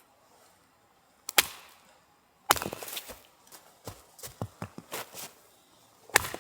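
Firewood being chopped: sharp wooden strikes about a second and a half in, again at about two and a half seconds, and near the end, with a clatter of smaller knocks between them.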